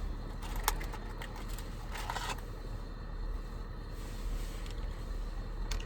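Car engine idling with a steady low hum. A sharp click comes less than a second in, a short rustle of handling about two seconds in, and another click near the end.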